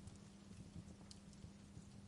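Wood fire crackling faintly, with scattered small pops and snaps, a few a second, over a low steady rumble.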